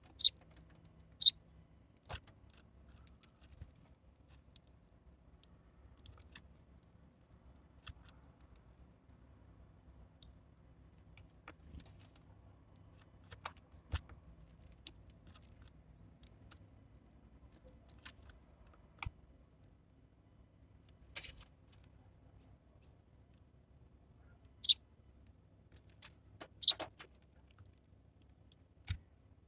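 Small birds pecking and cracking seed at a bird feeder: irregular sharp clicks and taps, scattered and mostly faint, with a few louder ones about a second in and twice near the end.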